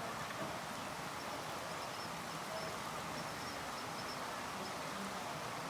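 Steady rain falling, an even hiss that holds the same level throughout, with faint high chirps over it.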